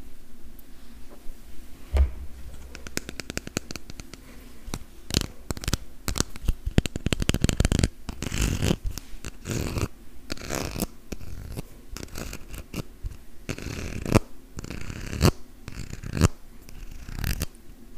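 Fingernails tapping and scratching on hollow plastic play-food items close to the microphone: quick runs of light taps, with rasping scratches in between.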